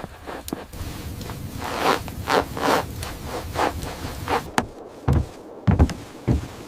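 A run of short scraping, rustling strokes, about two or three a second, followed by three low thuds about half a second apart.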